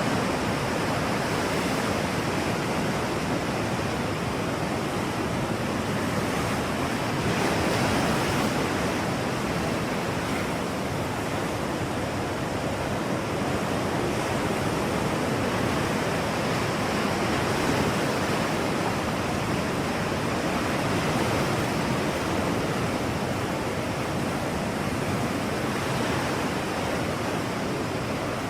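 Steady rushing noise of natural ambience, like surf or wind, rising and falling gently in slow swells.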